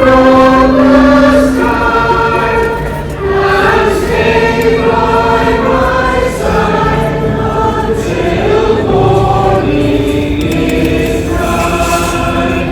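Music: a choir singing slow held chords, changing every second or two, over a steady low bass line.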